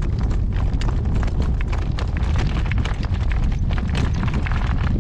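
A horse's hoofbeats at a trot, a quick run of knocks, under heavy wind rumbling on the microphone.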